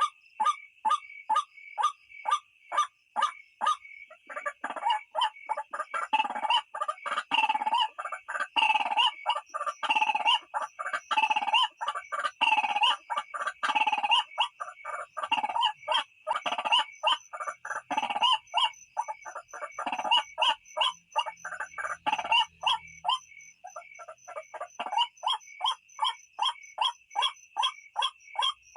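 White-breasted waterhen calls from a lure recording: short notes repeated about three a second, swelling in the middle into a loud, dense bout of harsh repeated calls, then settling back to the steady series. A steady high tone runs behind.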